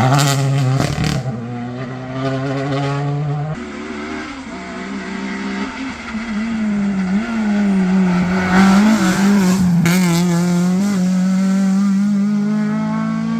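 Modern rally car running flat out on a special stage. A high, steady engine note drops away about three and a half seconds in. Another engine note then climbs and holds steady, with sharp exhaust cracks around the first second and again near ten seconds.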